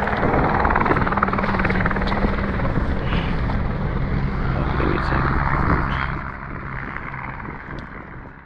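Low-flying helicopter, its rotor and engine making a steady heavy drone that fades away over the last couple of seconds.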